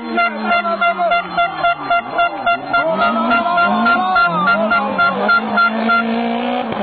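A horn sounding in short, rapid toots, about three a second, over a rally car's engine revving up and down; the tooting stops shortly before the end.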